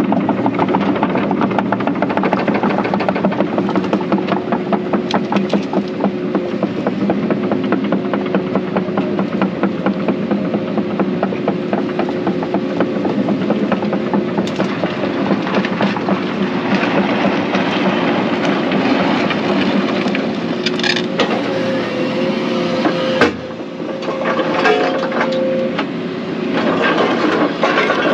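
Excavator's diesel engine running steadily while the machine tracks along, with a fast, continuous clatter of the tracks through the first half. Later a higher steady tone joins the engine, and near the end there is a single sharp knock, after which the engine sound briefly drops.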